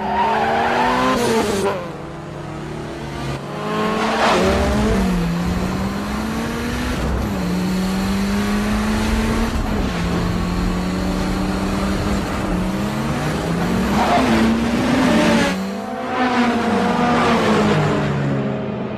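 Tuned Honda Civic race cars' engines revving hard and shifting through the gears, the pitch climbing and dropping again and again, with more than one engine heard at once at times.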